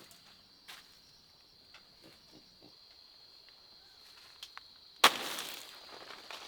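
A pig gives one loud, rough grunt about five seconds in, fading out over about a second, against a steady high insect drone and a few faint rustles.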